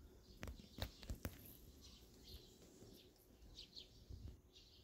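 Near silence, with a few faint clicks early on and some faint bird chirps later.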